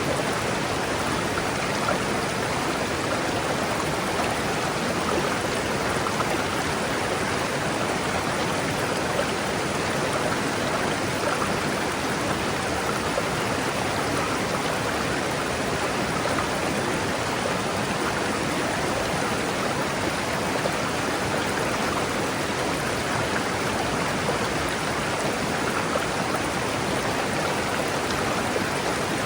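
Forest river rushing over rocks: a steady, even rush of flowing water with no breaks.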